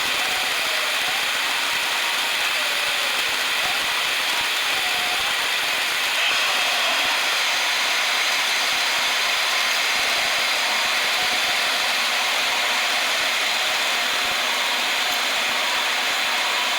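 Steady rushing hiss of Boeing 757 flight-deck noise, with almost no low engine rumble and a slight rise in level about six seconds in.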